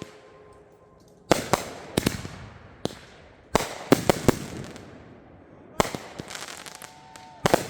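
Consumer fireworks going off. About a second in, a run of sharp, irregular bangs begins, some in quick pairs, each trailing off in a crackle.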